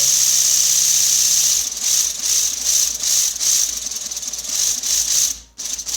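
LEGO pneumatic engine running on compressed air, its valve exhaust hissing and rattling. At first it runs fast with a steady hum, then about a second and a half in the air puffs separate to about four a second, and it stops near the end. The engine runs without leaks and performs well.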